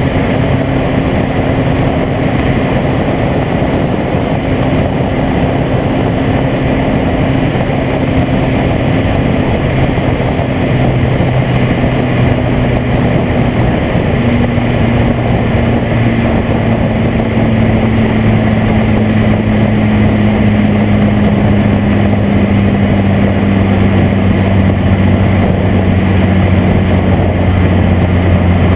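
Mazda Miata's four-cylinder engine and exhaust droning steadily at road speed under a heavy rush of tyre and wind noise. Over the second half the drone gradually falls in pitch as the revs ease off.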